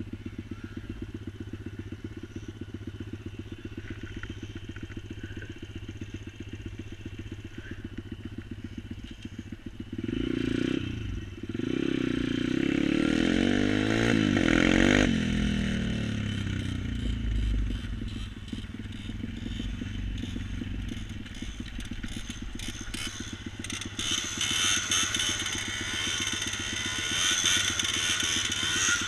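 Engine idling with a fast, steady beat. About ten seconds in, much louder engine sound comes in, with pitch sweeping up and down for several seconds, then settles to steadier running and grows louder again near the end.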